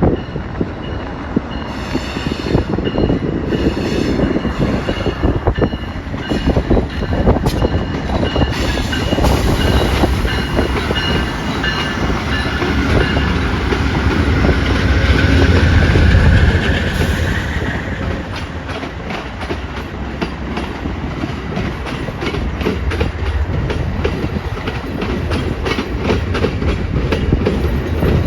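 Amtrak Southwest Chief passenger train going by. The diesel locomotive's rumble is loudest about halfway, with a squeal rising in pitch. After that the cars' wheels click steadily over the rail joints.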